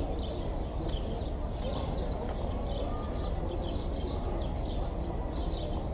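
Small birds chirping over and over, short high notes several times a second, over a steady outdoor background with a low rumble.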